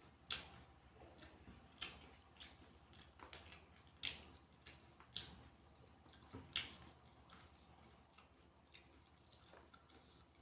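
Close-up eating sounds: wet chewing and crunching of food, heard as an uneven string of short, crisp clicks, the loudest about four and six and a half seconds in.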